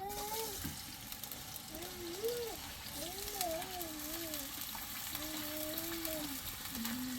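Food frying in hot oil, a steady sizzling hiss. A high-pitched voice rises and falls over it in several short phrases.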